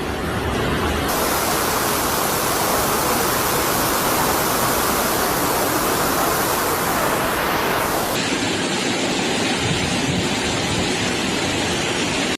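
Heavy rain pouring down: a dense, steady hiss. Its upper range cuts in sharply about a second in and drops away about eight seconds in.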